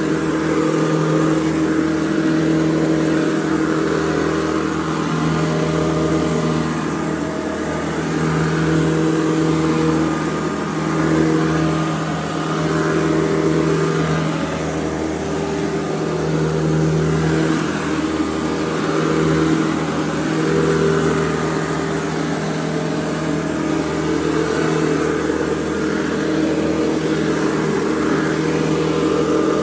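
Hoover Convertible U4101 upright vacuum cleaner running steadily while vacuuming, a loud motor hum with several steady tones that shift slightly in loudness as the machine is pushed and pulled.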